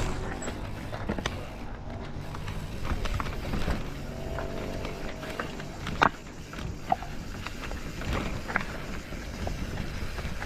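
Rattles, bumps and sharp knocks of a vehicle being ridden over rough, uneven ground, over a steady rushing noise.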